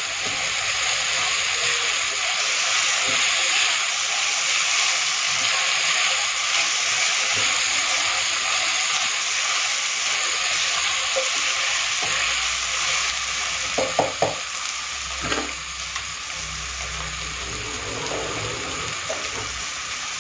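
Onions, hyacinth beans (avarekalu) and chopped tomato frying in a pressure cooker pan while being stirred with a spatula: a steady sizzle that eases off a little in the last third.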